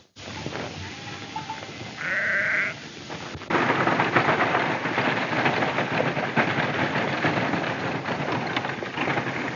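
Sheep bleating: one bleat about two seconds in, then the dense, massed noise of a flock from about three and a half seconds on.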